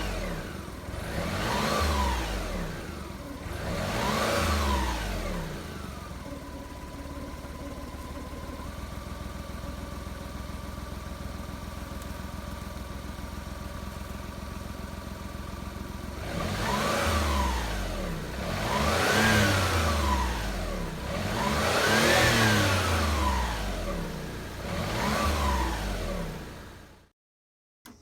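Daihatsu EF-DET 660 cc turbocharged three-cylinder engine being free-revved in short throttle blips, each rising and falling back, with a steady idle in between: three blips, about ten seconds of idle, then four more blips. The sound cuts off abruptly near the end.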